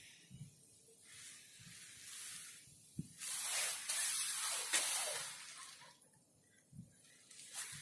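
Strong wind gusting in a hissing rush: a faint gust, then a stronger one about three seconds in that swells and dies away after about two seconds. A couple of faint low knocks.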